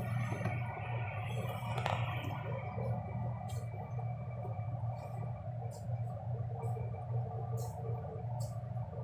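Steady low machine hum from running laundromat machines, pulsing slightly, with a few faint light clicks now and then.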